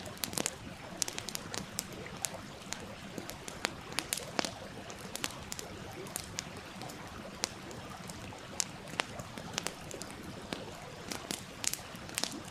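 Wood campfire crackling with sharp, irregular pops over the steady rush of a stream.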